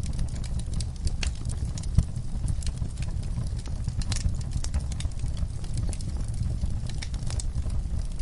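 Wood fire in a fireplace crackling and popping irregularly over a steady low rumble of burning, with one louder pop about two seconds in.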